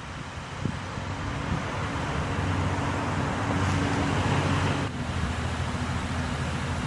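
Steady motor-vehicle noise: an engine hum with road traffic and some wind noise, changing abruptly about five seconds in.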